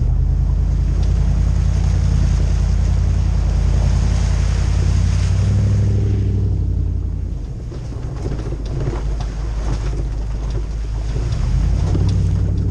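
Toyota 2UZ-FE 4.7-litre V8 with a full exhaust, in a 100 series LandCruiser driving under load: a deep, loud V8 rumble. Its pitch rises a little and then drops off about seven seconds in as the throttle eases, and it pulls harder again near the end, with light ticks and knocks in the quieter stretch.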